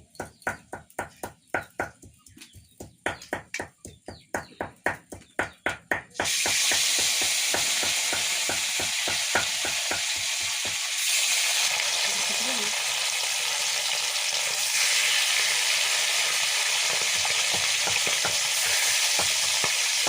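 A spatula stirring and scraping in a cooking pan in quick, regular strokes, about three or four a second. About six seconds in, loud, steady sizzling of food frying in hot oil starts suddenly and carries on.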